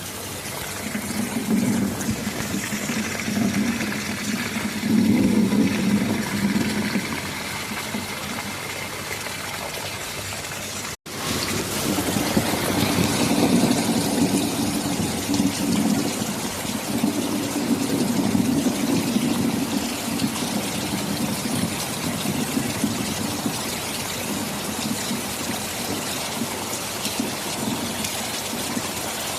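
Steady heavy rain with rolling rumbles of thunder, swelling in the first few seconds and again from about twelve to twenty seconds in. The sound cuts out for a split second about eleven seconds in.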